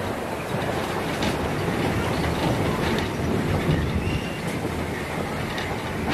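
Narrow-gauge heritage train running along the track, a steady rumble and clatter of wheels on the rails.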